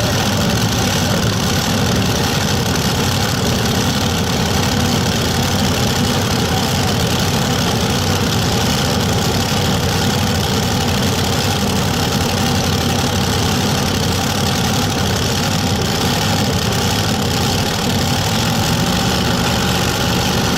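Pulling tractor's engine idling steadily, with no revving.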